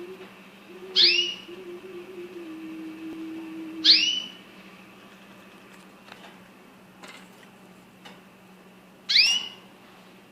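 A small yellow bird giving three loud, short chirps, each a high note that sweeps down and levels off. They come about a second in, near four seconds, and about nine seconds in.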